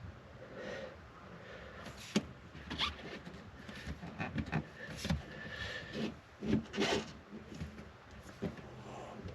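Irregular rubbing and scraping of parts being handled, broken by several sharp clicks and knocks, the loudest a little after two seconds in and around five to seven seconds in.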